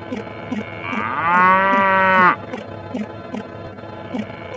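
A long, pitched, moo-like call lasting about a second and a half and cutting off sharply, over a regular ticking about twice a second.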